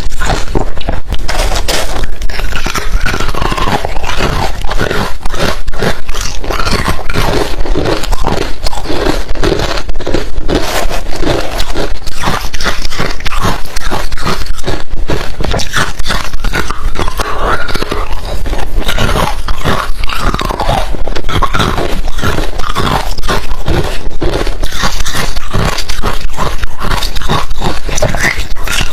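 Close-miked crunching of hard refrozen crushed ice being bitten and chewed, a dense, continuous run of loud, irregular crunches with wet mouth sounds between them.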